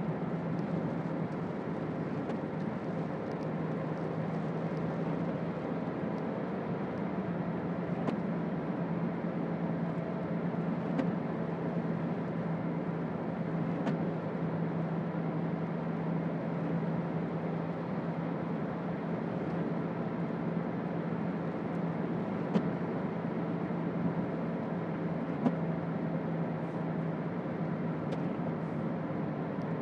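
Toyota Auris 1.4 D-4D four-cylinder turbodiesel heard from inside the cabin at a steady cruise: an even engine drone over tyre and road noise on a wet road. A couple of sharp clicks come near the end.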